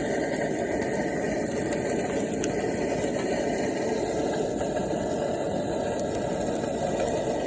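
Diced lamb frying in a hot pot with onion and celery over a camp stove: a steady, dense frying and burner noise that holds level throughout.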